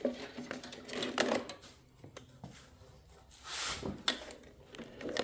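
Handling noises from working on the tractor's ignition wiring: a few light clicks and short rustling scrapes at irregular moments, the loudest about a second in and again near four seconds.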